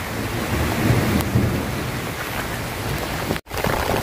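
Heavy rain pouring down on banana leaves and vegetation, a dense steady hiss, with a low rumble of thunder in the first half. The sound breaks off for an instant about three and a half seconds in.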